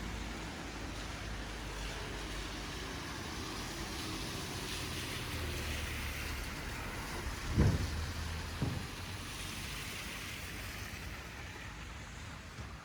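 City street ambience: a steady hiss of passing traffic, with two dull thumps about seven and a half and eight and a half seconds in.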